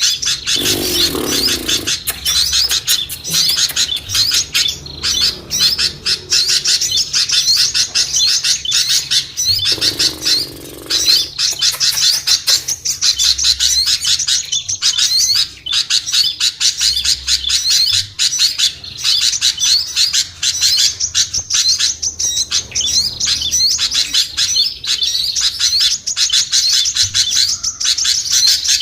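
A dense, unbroken chatter of rapid high chirps and twitters from many small songbirds layered together: a bird-lure recording meant to call small birds down. Brief lower-pitched calls sound about a second in and again about ten seconds in.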